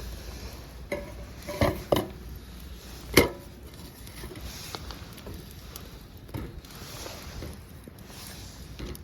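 Metal cookware and utensils clinking and clattering as camp cooking gear is handled. There are a few sharp knocks in the first two seconds and one loud clank about three seconds in.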